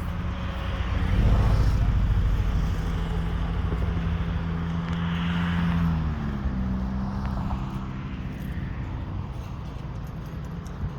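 Motor vehicle engine running with a steady hum that swells about a second in. Its pitch drops a step about six seconds in, then it slowly fades.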